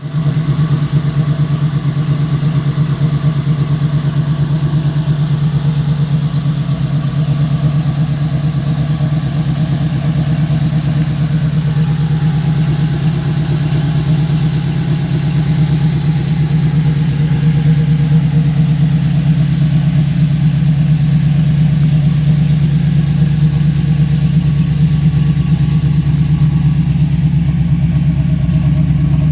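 1968 Chevrolet Camaro's engine idling steadily.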